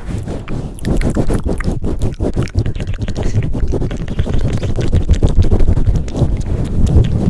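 Hands pumping and swirling over a microphone at close range: a dense, continuous run of rapid muffled thumps and rubbing, heaviest in the low end.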